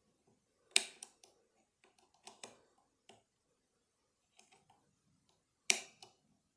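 Metal clicks from a 2-in-1 pick and its tension arm working the levers inside a lever lock: two sharp, louder clicks about five seconds apart, with a scatter of lighter ticks between them.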